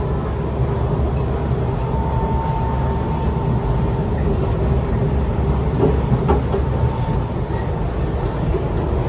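MRT train running between stations, heard from inside the carriage: a steady low rumble of wheels on the track with a faint steady whine, and a few light knocks about six seconds in.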